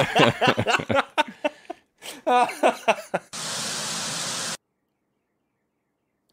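People laughing and talking, then a steady hiss of noise lasting about a second and a quarter that starts and cuts off suddenly, followed by dead silence.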